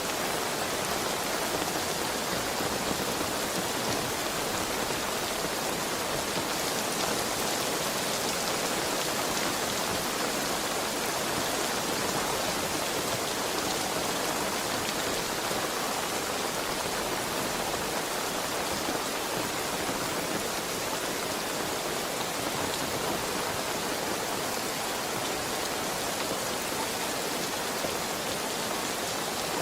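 Heavy rain falling steadily, an even hiss of drops on surfaces with no thunder or pauses.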